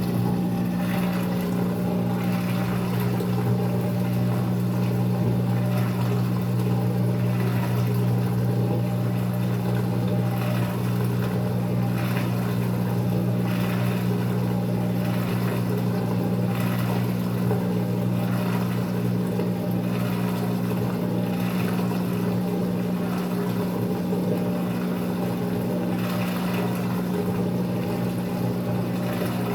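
Maytag MVWX655DW1 top-load washer draining during a tub-clean cycle: its drain pump hums steadily at an even pitch.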